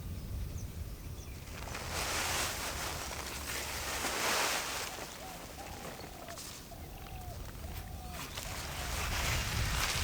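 Rural outdoor ambience with a steady low rumble and rustling swells of noise, and four short arched calls from a bird partway through.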